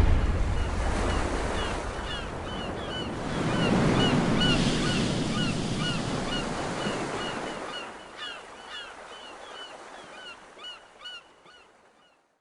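Ocean surf washing ashore with many short, high bird calls over it; the waves swell a few seconds in, then the whole sound fades out near the end.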